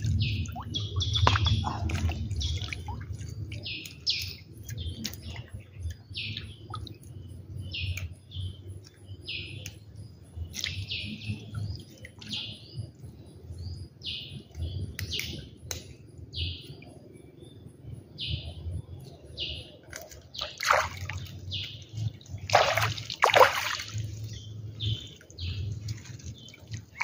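Bird chirping repeatedly in short, high calls, over water sloshing around a man wading in floodwater. A few louder splashes of water come in the last seconds as the fishing net is lifted out of the water.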